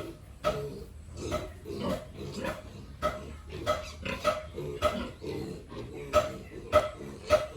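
Pigs grunting and squealing in a string of short, sharp calls, about two a second.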